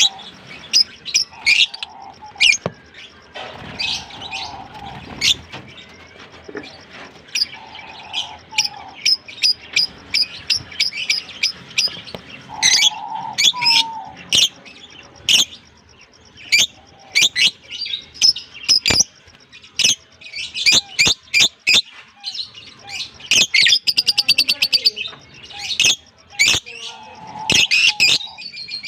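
Fischer's and blue masked lovebirds chirping: many short, sharp, high-pitched chirps in quick irregular runs, busiest in the last few seconds.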